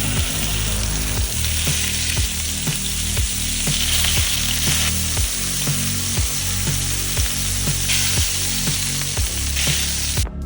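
Food sizzling in a hot frying pan with butter or oil, a steady crackling hiss that cuts off suddenly near the end.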